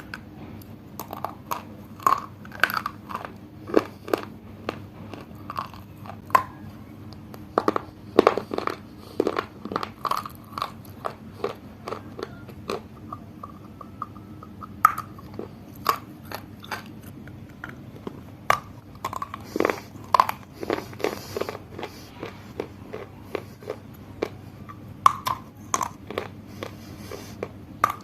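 Close-miked biting and chewing of a dry, brittle solid: loud, sharp crunches at an irregular pace, one bite after another, with a short quieter stretch of chewing about halfway through.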